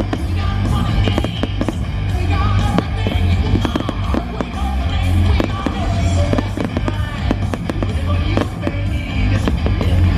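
Fireworks bursting in rapid, irregular cracks and bangs over loud music with a heavy bass beat.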